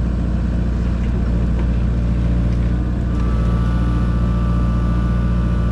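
Kubota KX057-4 mini excavator's diesel engine running steadily. A steady high whine joins it about three seconds in.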